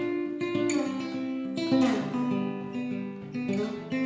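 Acoustic guitar strumming chords with no singing, with strong strokes about half a second in, near two seconds and just before the end, each chord left ringing.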